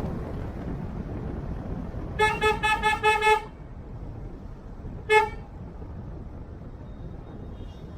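Vehicle horn honking in a quick run of about five short beeps, then one more short toot about two seconds later. Steady road and engine noise from driving in traffic runs underneath.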